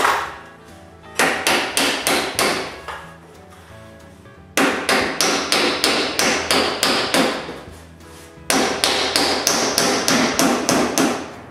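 Hammer blows on wood in three runs of quick, even strokes, about four a second, as hemlock ceiling planks are knocked tight together.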